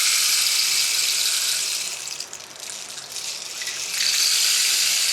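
Two long hisses, each a couple of seconds long, with a short dip between them.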